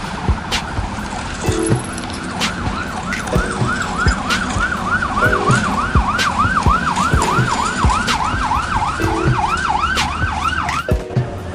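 Emergency vehicle siren in a fast yelp, about three rising-and-falling wails a second, starting a few seconds in and cutting off near the end, over a steady noisy background with scattered clicks.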